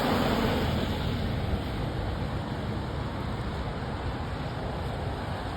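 Fire engine's engine and road noise as it drives away, a steady rumble that slowly fades.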